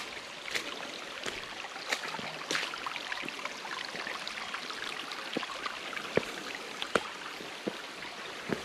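Creek water rushing steadily over rocks at a small waterfall, with scattered sharp clicks and taps at irregular intervals.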